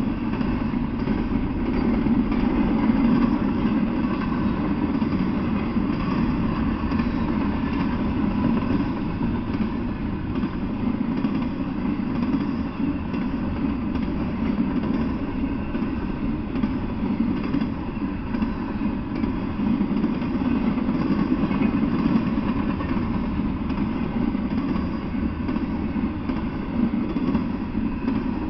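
Double-stack container freight train rolling past: a steady, low rumble of steel wheels on rail.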